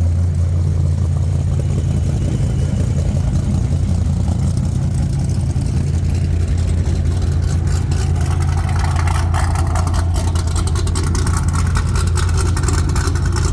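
A motor vehicle's engine running steadily: a loud, even low drone.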